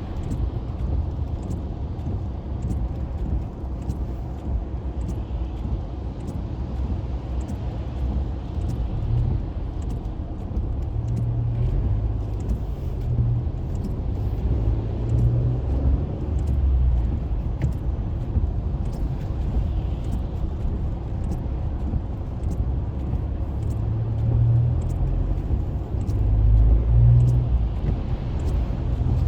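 Car cabin noise while driving on a wet highway in the rain: a steady low rumble of engine and tyres that swells at times, with faint, regular ticks about once a second.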